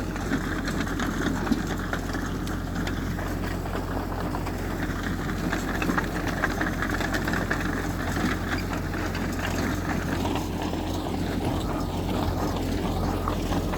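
Diesel engine of heavy earthmoving machinery, a bulldozer or dump truck, running steadily with a low hum and a rattly mechanical noise. The noise grows a little stronger around the middle.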